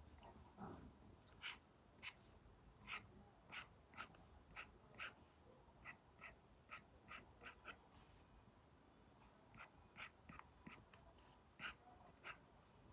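Faint Apple Pencil tip dabbing and making short strokes on an iPad's paper-like matte screen film, the strokes coming irregularly about one or two a second, with a pause of about two seconds a little past the middle.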